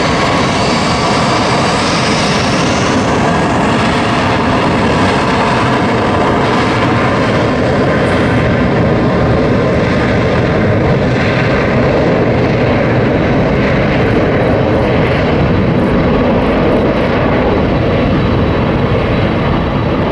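Jet airliner's engines at takeoff power: a loud, steady roar with a faint high whine on top, holding level throughout.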